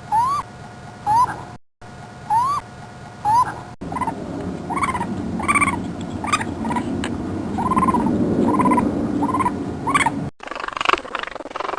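Short animal calls: first a few quick upward-sliding calls, then, after a cut, a series of arched calls repeating a little more than once a second over background noise.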